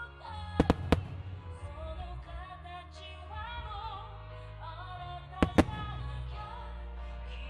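Aerial firework shells bursting with sharp bangs, three in quick succession about half a second in and two more about five and a half seconds in, over a song with a singing voice played for a pyromusical display.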